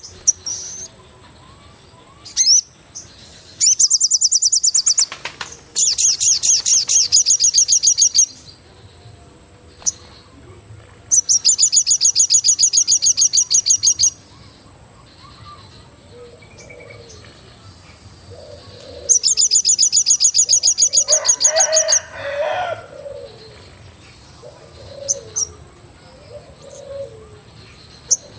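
Wild forest birds calling. A loud, high, rapid trill lasting two to three seconds comes four times. From about halfway on, short low cooing calls repeat, like a dove's. A thin steady high tone runs underneath.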